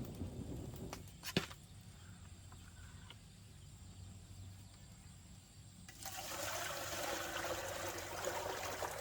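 A single sharp knock about a second and a half in, then about six seconds in a steady rush of running water starts abruptly.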